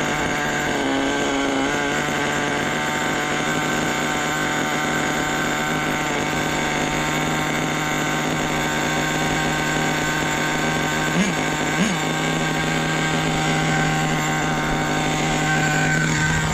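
Nitro RC truck's small glow engine idling steadily at a raised idle, loading up: it is running rich and not burning its fuel fully.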